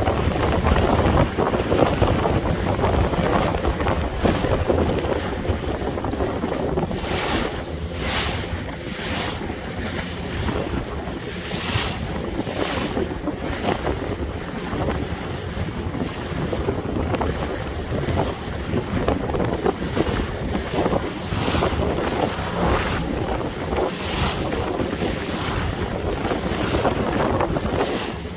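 Small boat moving through the water: wind buffeting the microphone over a steady wash of water along the hull, with a few brief louder splashes.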